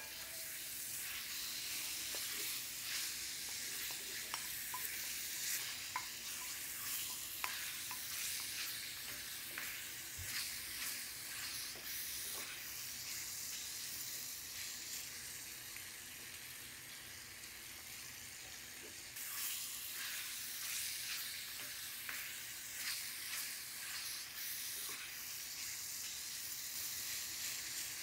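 Food frying in a hot cast iron pan: a steady sizzle with scattered light clicks of a spoon stirring.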